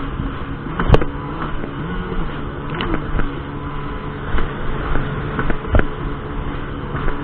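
Jet ski engine running at a steady speed under a haze of wind and water noise, with a few sharp thumps, the loudest about a second in and another near six seconds in.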